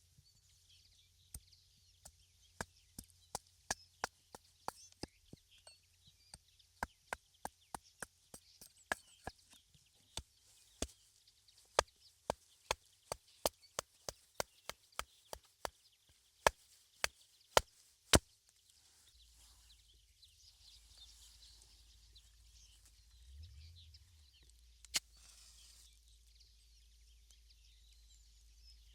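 Chopping: a run of sharp strikes, about two or three a second, that stops about eighteen seconds in, followed by one more single knock later.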